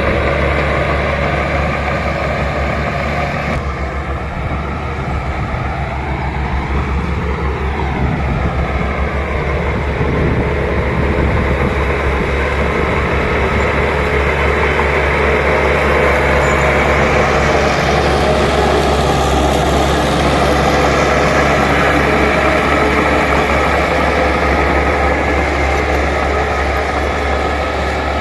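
Bulldozer's diesel engine running steadily, with its pitch shifting up and down briefly a few seconds in.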